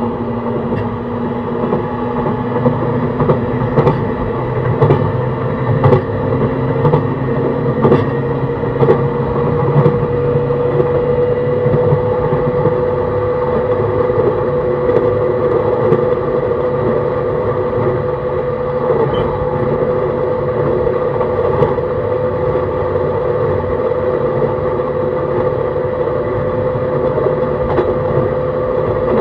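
JR East E131 series train running at speed, heard from inside the car: the Hitachi hybrid SiC inverter and traction motors hum with a tone that rises slightly over the first ten seconds or so and then holds steady. Sharp rail-joint clicks come about once a second in the first ten seconds.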